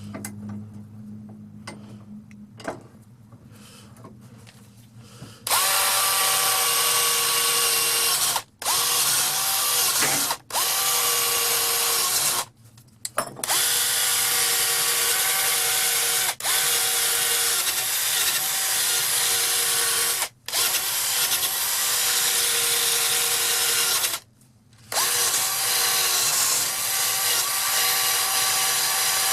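A handheld power tool spins a polishing wheel loaded with compound against a rusty vintage auger bit to buff it. After a quieter first five seconds it runs as a steady motor whine with grinding noise, cutting out briefly and spinning back up several times.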